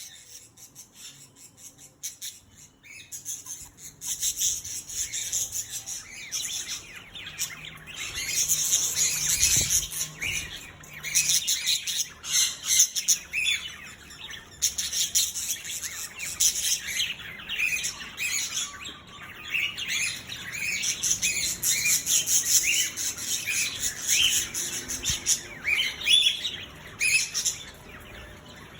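Several kinds of birds calling and chirping together: a dense chorus of short, high squawks and chirps that thickens a few seconds in.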